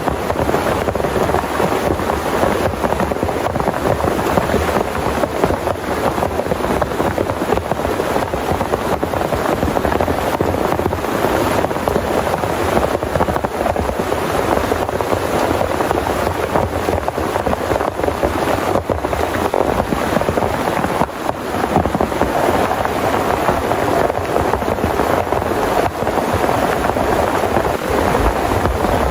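Heavy rain falling steadily and unbroken, a dense even wash of drops.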